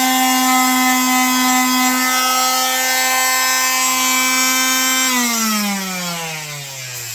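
Electric power tool motor running steadily at a constant high speed, then switched off about five seconds in and winding down with a falling pitch.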